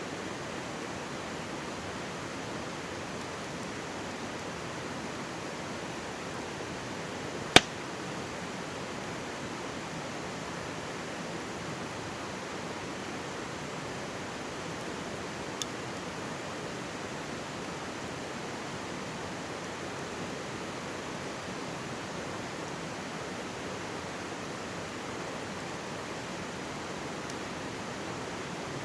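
Mountain stream babbling steadily close by, with a wood campfire burning over it: one sharp loud pop from the fire about seven seconds in and a fainter one about halfway through.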